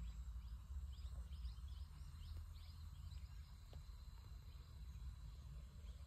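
Faint bird chirps, a quick cluster of short high calls in the first few seconds, over the low steady rumble of a car heard from inside the cabin.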